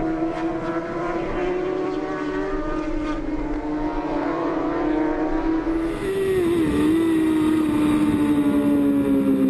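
Superbike racing motorcycle engines running at high revs, the pitch held fairly steady with a brief dip about seven seconds in, growing a little louder toward the end.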